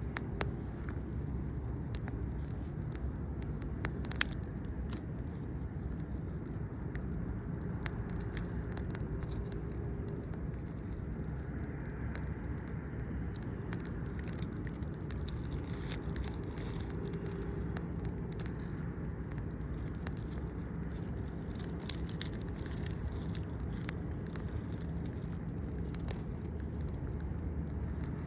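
Campfire burning: wood crackling, with scattered sharp pops over a steady low rush.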